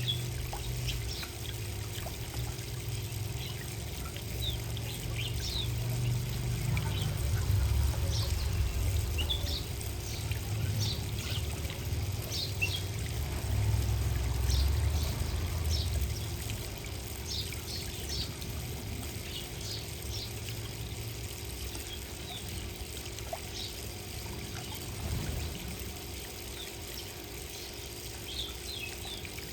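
Small garden birds chirping in many short, repeated notes over a steady trickle of water, with a low rumble that swells in the first half.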